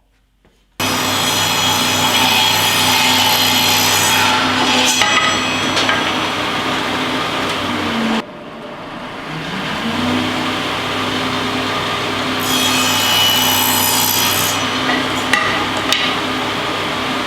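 Shopsmith saw running and crosscutting two 1x3 boards to length. A steady motor hum comes in suddenly, and a harsher rasp marks each pass of the blade through the wood. Midway the sound drops off abruptly, then the motor winds back up to speed for the second cut.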